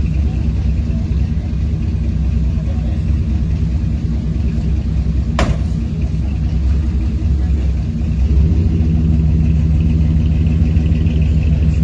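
A car engine running steadily close by, with a low rumble. It gets a little louder about eight seconds in, and there is a single sharp click about halfway through.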